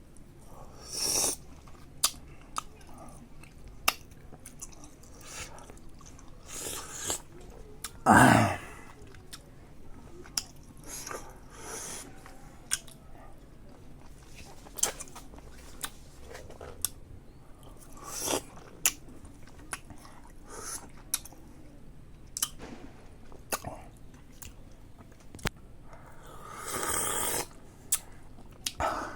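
A person chewing and biting bayberries close to the microphone: irregular wet mouth clicks and smacks with short chewing bursts, and a louder, longer mouth sound about eight seconds in.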